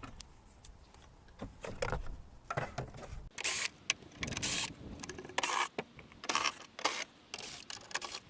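Hand work on a car's under-windscreen cowl: clicks and scraping, clattering of metal tools and plastic parts. It is faint for the first few seconds, then comes as a string of short noisy rattles, one or two a second.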